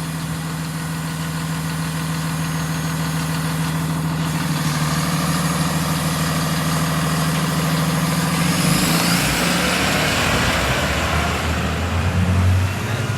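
Blue Bird school bus engine idling steadily; about nine seconds in it grows louder, with a rising hiss and a deeper engine note.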